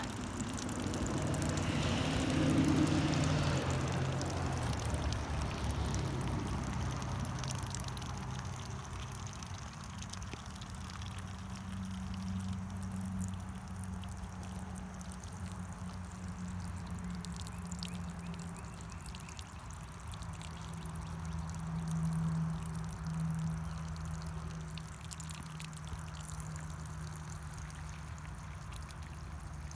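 Water running from an outdoor spigot, pouring and trickling onto the ground, with a low steady hum underneath.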